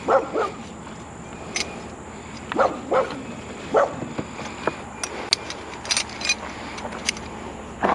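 A dog barking in short single barks, about six over the first few seconds, followed by a few light clicks.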